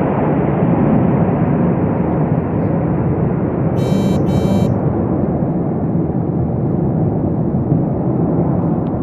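Roar of military jet aircraft in a flyover, a steady, loud rumble that eases slightly near the end as the jets draw away. Two short, high chirps sound about four seconds in.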